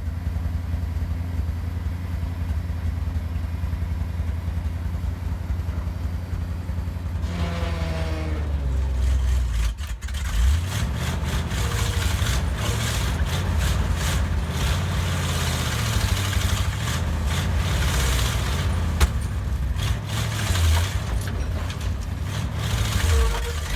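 Engine of a 1971 International 1890 plow truck running: a steady low idle for about seven seconds, a falling pitch around eight seconds in, then from about ten seconds a rougher, noisier, changing engine sound, as when the truck is moving.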